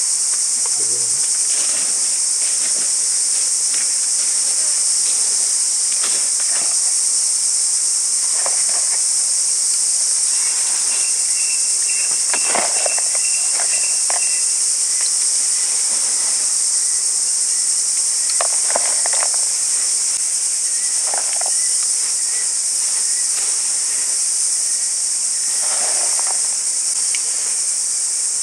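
Steady high-pitched chorus of insects, with scattered clicks and rustles close by.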